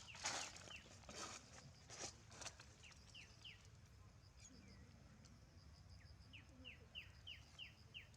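A bird repeating short, quick, falling chirps, three in a run and then six in a row near the end, over faint rustling at the start.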